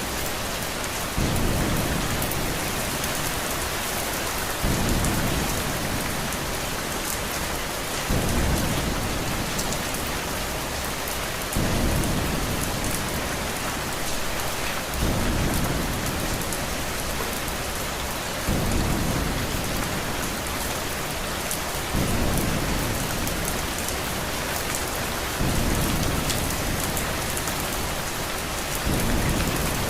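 Steady heavy rain hiss, with a low rumble that swells in abruptly about every three and a half seconds and fades away, in an even repeating pattern.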